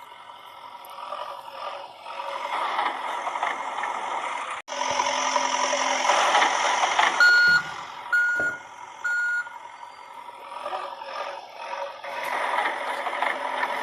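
Electronic sound effects from a battery-powered toy construction vehicle: a recorded engine rumble with three short reversing beeps partway through.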